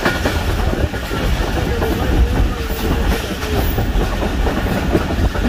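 Passenger train running at speed, heard from on board: a steady low rumble with the clickety-clack of the wheels over the rail joints.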